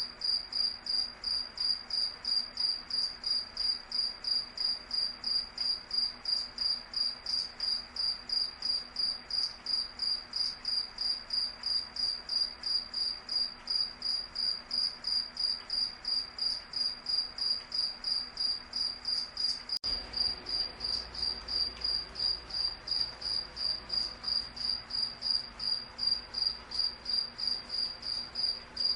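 Crickets chirping steadily: a high-pitched chirp repeated evenly about two to three times a second.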